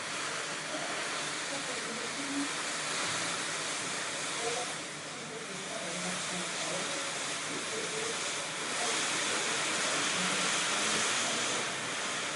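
Steady hiss of heavy rain falling, swelling slightly about two-thirds of the way through.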